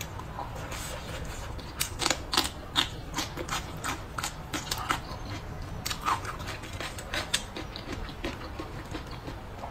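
A person chewing and biting mouthfuls of braised pork and green peppers close to the microphone: a run of short, sharp mouth clicks and smacks, busiest about two seconds in and again around six seconds in.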